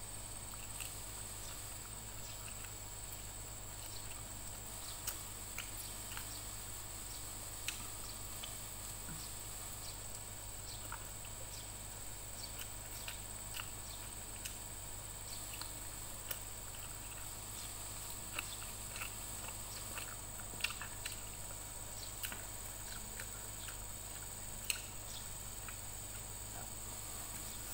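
Close-up eating sounds: scattered small wet clicks and lip smacks of fried chicken being chewed and pulled apart by hand, over a steady high-pitched hiss and a low hum.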